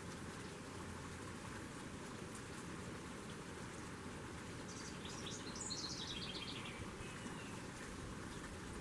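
A small songbird sings one quick phrase of rapid high notes that step down in pitch, about five seconds in, over a steady outdoor hiss.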